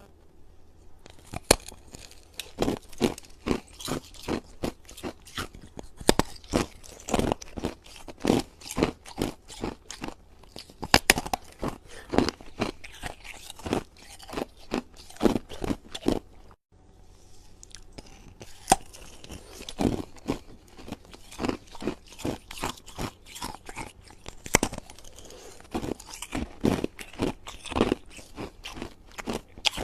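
Ice being bitten and chewed close to the microphone: a fast run of loud, sharp crunches, about two a second, with a short break about 17 seconds in.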